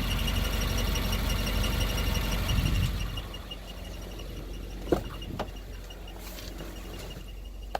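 2015 Subaru WRX idling with a fast, regular high-pitched chirp, about six a second, over the engine's rumble: the sound of a clutch throw-out bearing starting to fail. About three seconds in, the engine sound drops and the chirp carries on fainter, with a couple of sharp clicks.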